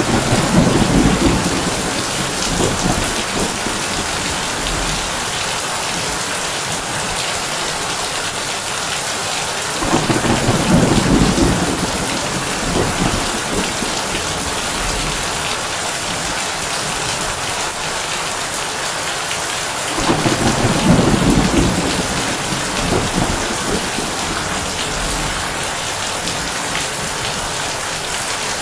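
Heavy rain drumming on a tin roof as a steady hiss, with low thunder rumbling three times, about ten seconds apart: at the start, about ten seconds in and about twenty seconds in.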